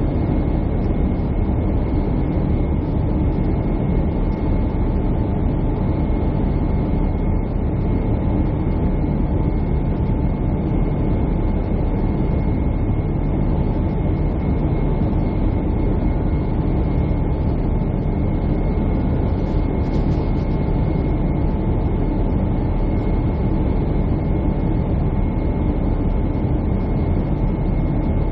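Jet airliner cabin noise: a steady low rumble of engines and airflow heard from a window seat, with two faint steady whining tones riding above it.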